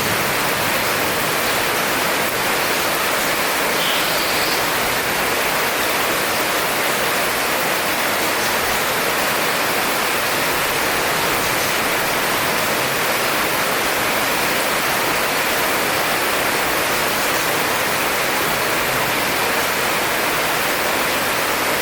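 Heavy rain pouring steadily, an even rushing hiss that does not change.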